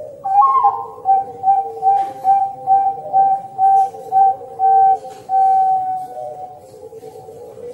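A high whistle-like note sounded again and again in short pulses, about three a second, ending in one longer held note, over steady lower tones.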